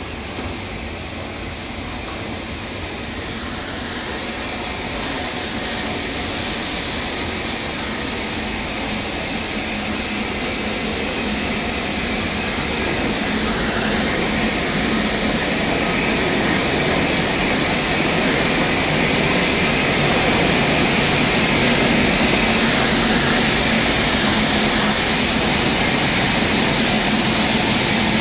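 Train slowly arriving, a steady noise with hiss that grows louder throughout as LMS Stanier 8F 2-8-0 steam locomotive 48151 draws alongside tender-first.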